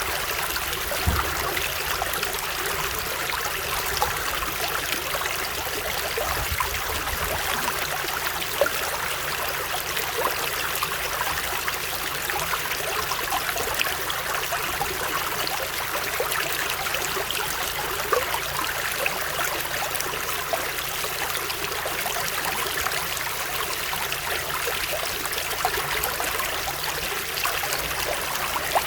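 Stream water flowing steadily, with many small splashes and trickles.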